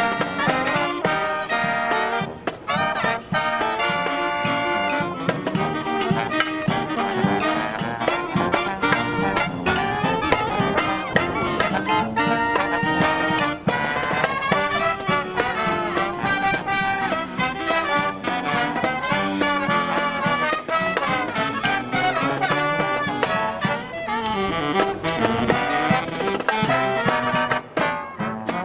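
A marching brass band playing a lively tune, led by trumpets and trombones.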